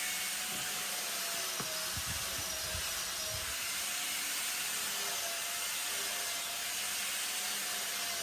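A woodworking power tool running steadily, a constant rushing noise with a faint wavering whine.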